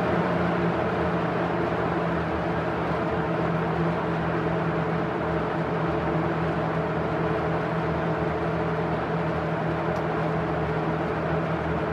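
Vintage Zayre metal-framed box fan with a seven-bladed plastic rotor running on its medium speed: a steady rush of air over a low, even motor hum.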